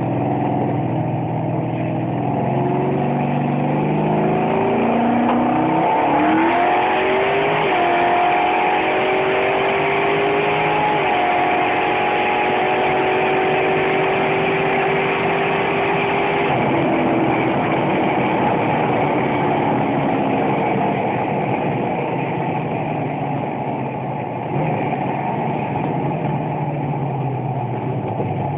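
Twin-turbo Ford Mustang's 4.6 L two-valve V8, heard from inside the cabin, pulling hard up through the gears. The engine note rises in several steps over the first eight seconds or so, holds steady for several seconds, then falls away as the car comes off the throttle and runs on at lower revs.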